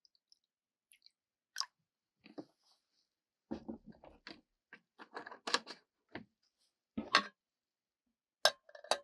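Irregular crunching and chewing in a small enclosed space, with a few sharp clicks and light clinks, busiest from about a third of the way in.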